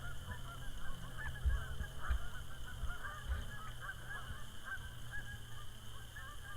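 A flock of birds calling continuously: many short, overlapping calls, with a steady low hum underneath.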